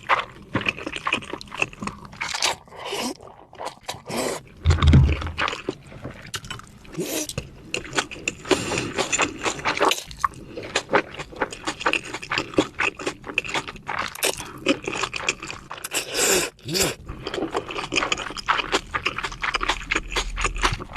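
Close-miked eating of grilled beef: chewing, biting and wet mouth clicks in a dense, irregular run, with a brief low thump about five seconds in.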